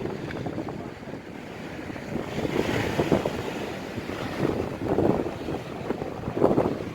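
Strong wind buffeting the microphone over storm waves surging on the shore, with louder gusts about three seconds in, at about five seconds and just before the end.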